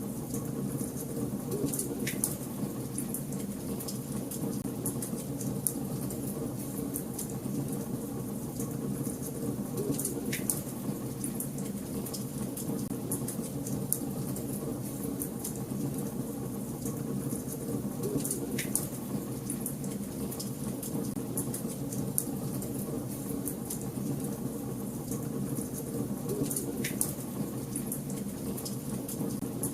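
Wood fire in a fireplace crackling and popping: a steady low rush of burning, with many sharp crackles and a slightly louder pop about every eight seconds.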